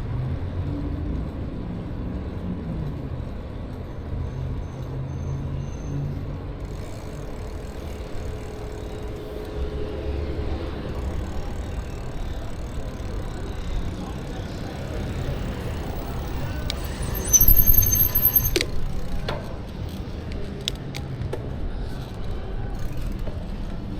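Wind and road rumble while riding an e-bike, with a brief high-pitched brake squeal a little over halfway through, from brakes that are squeaking badly.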